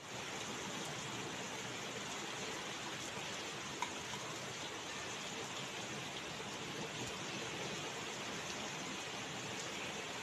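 Steady rain falling, an even hiss throughout, with a single faint tick about four seconds in.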